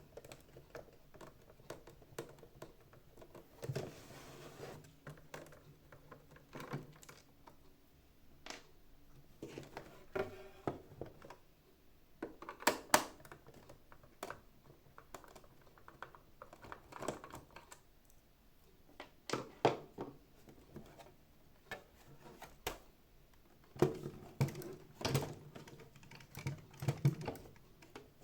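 Irregular clicks, taps and knocks of plastic parts and small hand tools being handled while a robot vacuum cleaner is taken apart, with a few sharper knocks among them.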